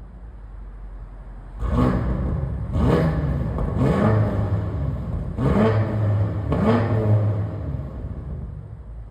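Stock BMW F90 M5's twin-turbo V8 idling, then revved hard about five times in quick succession, its pitch climbing with each rev, after about a second and a half.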